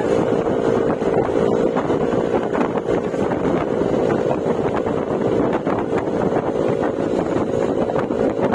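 Yamaha Mio Gravis scooter's single-cylinder engine running steadily at cruising speed through an aftermarket Akrapovic exhaust with silencer, with wind buffeting the microphone.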